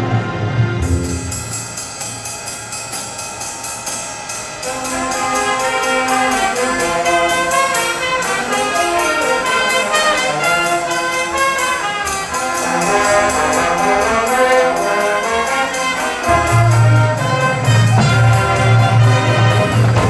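Marching band brass and percussion playing a big-band style number: trumpets and trombones over a steady cymbal beat, with heavy low brass coming in near the end.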